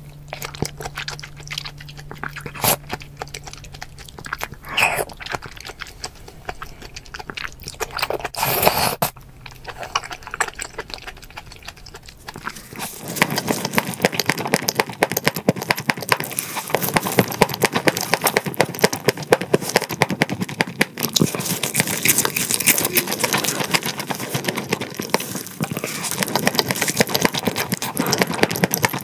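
Close-miked eating sounds: wet chewing of a large raw oyster in chili sauce with a few louder mouth sounds, then, about twelve seconds in, dense crunchy chewing of grilled whole fish.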